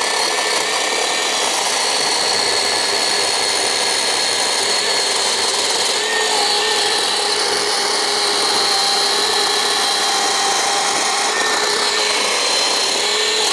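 Black & Decker 36 V cordless chainsaw's electric motor running steadily with a whine, the chain cutting through a log; the pitch shifts slightly about halfway through as the load changes.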